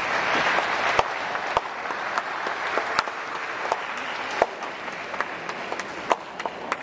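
Audience applauding, densest at first and thinning to scattered individual claps toward the end.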